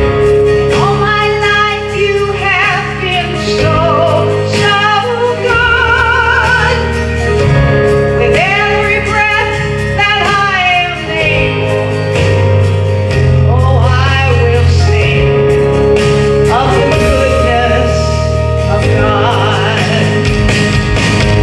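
Worship song: a singer with vibrato over instrumental accompaniment with held bass notes that change every few seconds.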